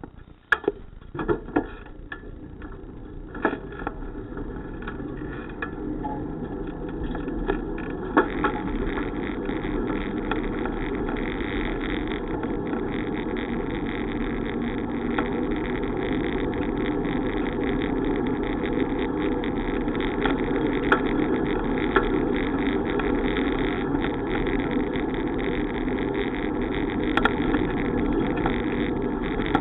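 Wind and road noise from a moving bicycle. A few sharp knocks and rattles come in the first few seconds, then the rush builds over several seconds into a steady noise.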